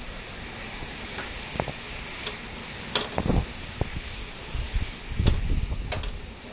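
Steady hiss of heavy rain with wind rumbling on the microphone, and several sharp knocks or taps scattered through.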